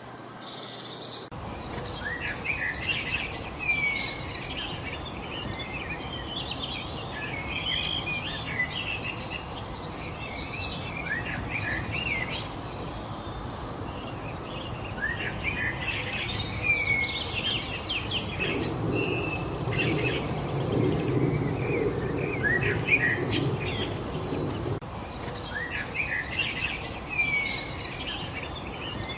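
Many small birds chirping and singing in quick overlapping calls and short whistles, over a steady background hiss. A low rumble joins in for several seconds in the middle.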